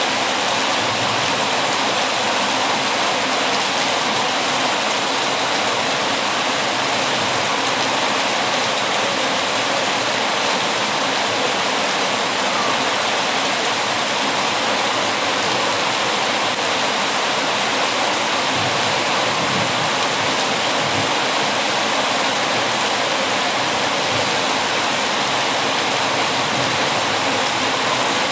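Heavy rain, a steady, even hiss that does not change.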